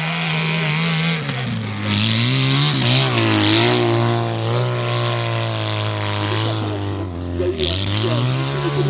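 Motorcycle engine on a steep hill climb, running hard. Its pitch drops about a second in, holds steady, then dips briefly and rises again near the end.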